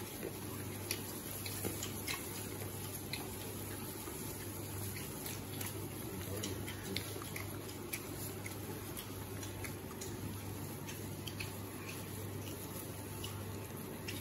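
Wet chewing and lip-smacking of people gnawing meat off stewed donkey rack bones: many small, scattered clicks over a steady low hum.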